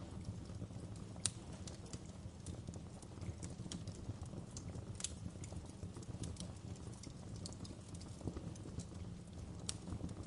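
Wood fire crackling: irregular sharp pops and snaps, a few of them louder, over a low steady rumble.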